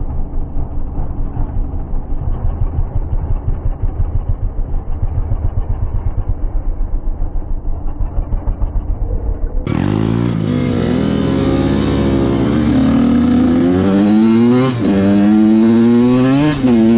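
Dirt bike engine. For the first ten seconds it is muffled and dull, pulsing several times a second. It then turns clear, revving up and dropping back repeatedly as the bike accelerates and shifts.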